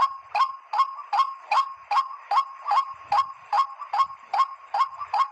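White-breasted waterhen (ruak-ruak) call: a sharp note repeated very evenly, about two and a half times a second.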